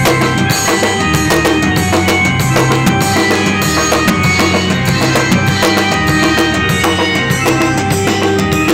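Loud heavy rock music in an instrumental passage without vocals: a drum kit keeping a steady, dense beat under guitar and bass.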